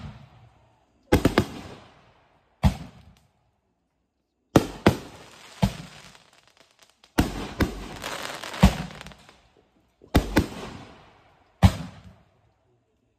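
Fireworks going off: a series of sharp bangs, singly and in quick pairs, each trailing away over a second or so. About seven seconds in a denser run of bangs follows with a longer crackling tail.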